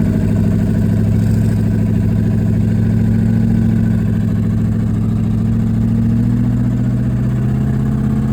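Twin-turbo LS V8 engine in a limousine running steadily at a low, even speed.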